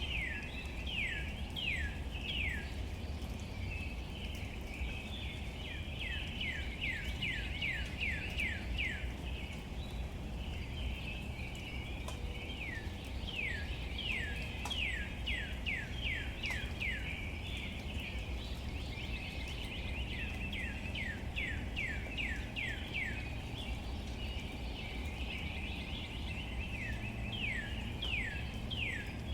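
A bird repeating runs of quick, downward-sliding whistled notes, about three or four a second and five to ten per run, with a run every few seconds. Beneath it is a steady outdoor background with a low rumble and a high, hissing haze.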